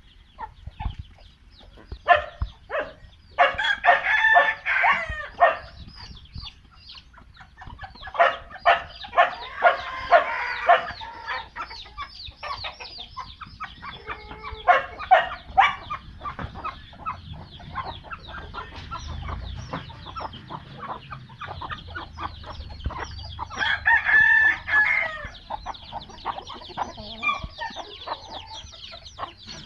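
Roosters crowing in four separate bouts, with hens clucking and many short sharp clicks in between.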